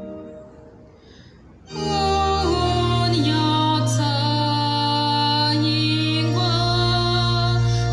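A sustained organ chord dies away, and after a short pause a woman's solo gospel singing begins about two seconds in, over keyboard accompaniment with a steady bass.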